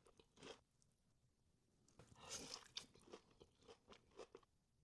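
Faint crunching and chewing of food in a person's mouth, close to the microphone: a short crunch about half a second in, then a run of crunchy chews from about two seconds in.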